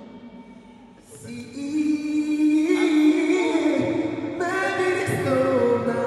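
Singing: after a brief lull, a voice comes in about a second in and holds long notes that slide up and down in pitch.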